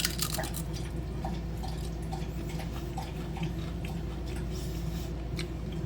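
Someone chewing Pringles chips: scattered faint crunches and clicks over a steady low room hum.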